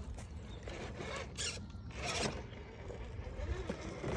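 RC rock crawler scraping and rubbing as it climbs over a log, in a few rasping strokes, the strongest about a second and two seconds in, over a low rumble.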